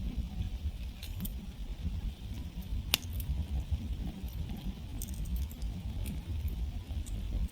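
Wood campfire crackling, with scattered small pops and one sharp, loud pop about three seconds in, over a low rumble.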